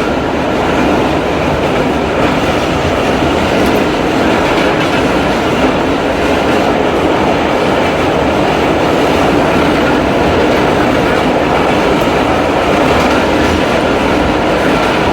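Inside a 1964-built R32 New York subway car running at speed through the tunnel: a steady rumble and rattle of the car and wheels, with a light clatter over the rail joints.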